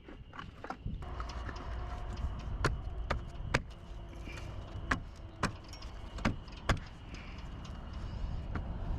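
A series of sharp knocks, about seven at irregular intervals through the middle stretch, over a steady low rumble.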